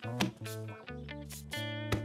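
Cartoon background music with plucked guitar notes over a steady bass, and a short sliding cartoon sound effect near the start.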